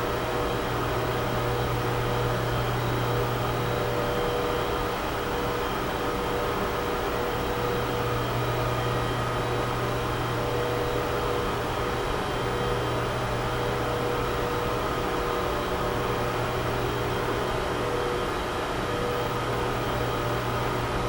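Computer server room ambience: a steady whir of cooling fans under a low hum, with a few thin steady tones above it. The low hum drops away for a few seconds about five seconds in, then returns.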